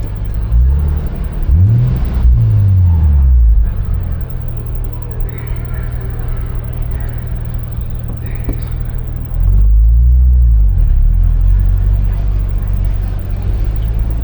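Sports car engine running at low revs with a deep rumble, revving up and back down twice: a longer rise and fall in the first few seconds, the loudest part, and a brief blip of revs about ten seconds in.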